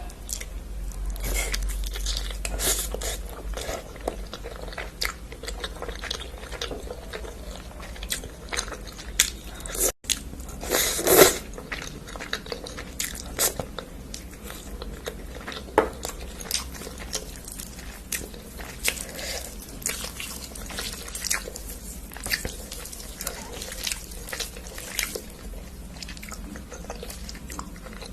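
Close-miked eating: biting and chewing with crunches and wet mouth clicks, irregular throughout, the loudest bites about nine to eleven seconds in.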